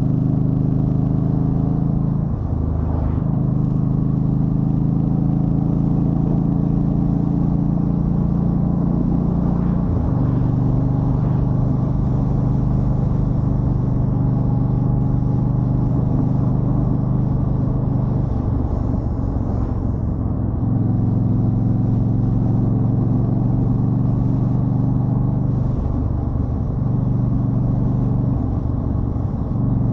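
2013 Yamaha Stryker's V-twin engine running under way on the road, its low note shifting in steps several times as the rider changes gear or throttle.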